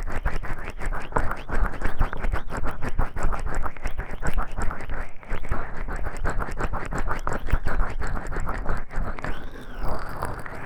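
Oiled hands rubbing and massaging the ears of a 3Dio binaural microphone: a dense, continuous run of close scratchy friction strokes.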